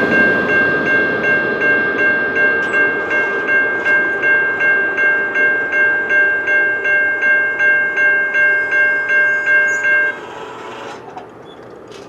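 Railroad grade-crossing bell ringing steadily, about two and a half to three strokes a second, over the rumble of a passing train's cars. The bell stops sharply about ten seconds in, leaving only fainter train noise.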